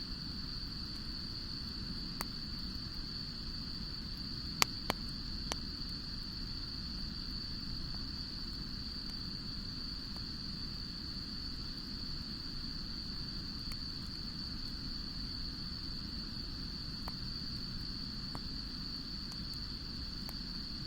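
Wood campfire burning with a steady low rush and only a few sharp crackles and pops, the loudest a pair about four and a half seconds in.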